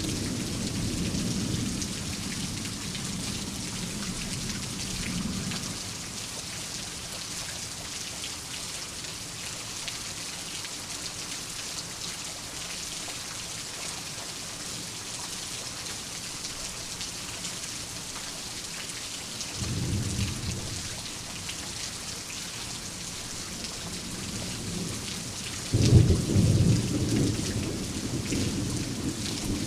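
Steady heavy rainfall with rolls of thunder: a rumble dying away over the first few seconds, a short one about two-thirds of the way through, and a louder clap near the end that keeps rolling.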